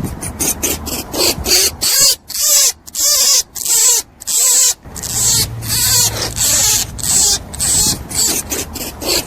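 Rabbit making short, hissy, high-pitched bursts over and over, about two a second, with faint squeaky tones beneath.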